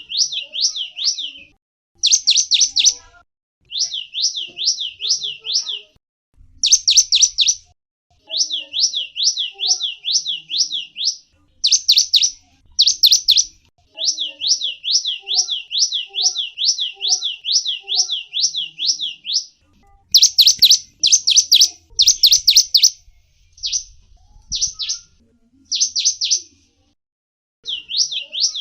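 Zebra finch calling: quick runs of short, high chirps, several notes to a run, with brief pauses between runs.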